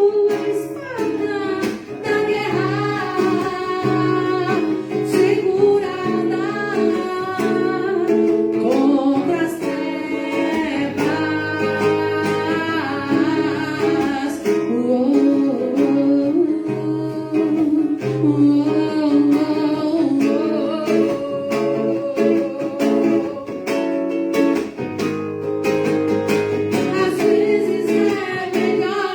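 A voice singing a song with strummed and plucked guitar accompaniment, performed live.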